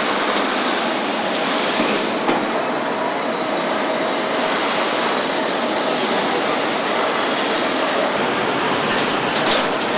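Steady, loud din of a truck assembly plant floor: an even wash of machinery and air noise with a faint steady hum.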